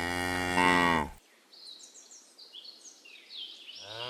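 A cow mooing: one long, drawn-out moo that ends about a second in, and another moo starting near the end.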